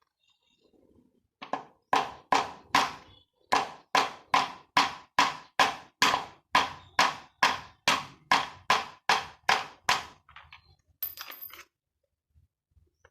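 Hammer blows on a washing machine's pulsator assembly, about twenty sharp strikes in a steady run of two to three a second. A short rasping noise follows near the end.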